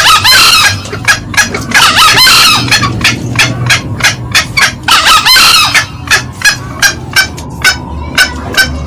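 Green junglefowl calling: a steady run of short, sharp cackling notes about three a second, with three louder, longer crows over them in the first six seconds. These are male and female calls used as a hunting lure.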